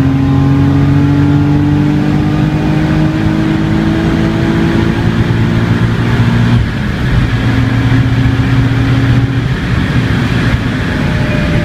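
Nissan 300ZX Z32 twin-turbo V6 engine pulling under way, its pitch climbing slowly for about six and a half seconds, then dropping suddenly and holding steadier.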